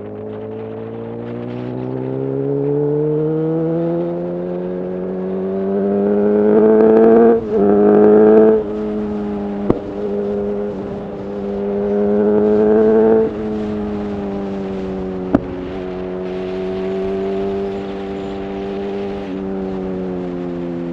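Honda CB1000R's inline-four engine through a full Black Widow exhaust, pulling hard with rising pitch and dropping abruptly at upshifts about seven and a half and eight and a half seconds in, climbing again and easing off around thirteen seconds, then cruising at steady revs. Wind rushes past throughout, and two short sharp clicks come through mid-ride.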